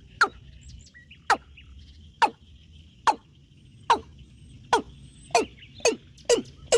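An animal's sharp, repeated calls, each one short and falling in pitch, about one a second at first and coming faster near the end, over a steady faint high buzz.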